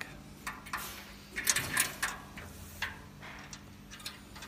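Short clicks and knocks of a plug being fitted into a fireworks launch rack by hand, with the loudest cluster about a second and a half in and a few lighter taps after.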